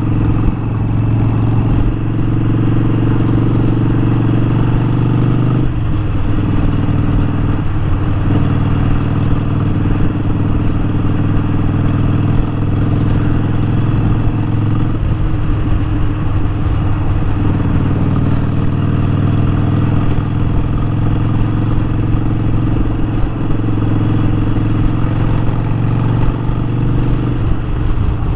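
Harley-Davidson Sportster 1200's air-cooled V-twin running steadily under way. Its note drops about six seconds in, then runs on with small rises and falls in pitch.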